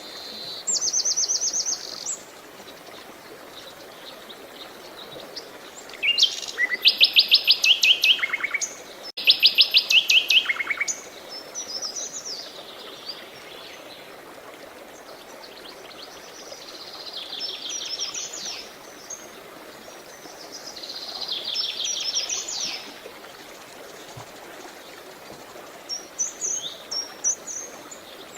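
Songbirds singing in short phrases of rapid trills, a new phrase every few seconds, over a steady hiss of running water.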